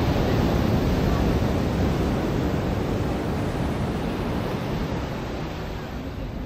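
Ocean surf washing onto a beach: a steady rush of breaking water that slowly fades over the last couple of seconds as the wave runs out.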